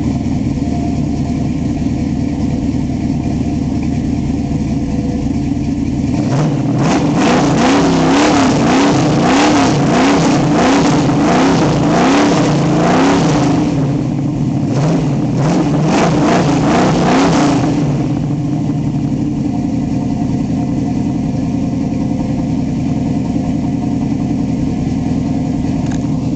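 1968 Pontiac Firebird's 400 cubic-inch V8 with a four-barrel carburettor idling with a rumble. About six seconds in, it is revved repeatedly in quick blips for roughly ten seconds, with a short pause in the middle, then settles back to a steady idle.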